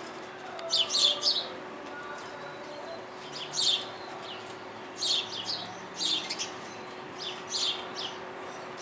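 Small birds chirping in quick clusters of sharp, high calls, a second or two apart, as they fight. A faint steady hum runs underneath.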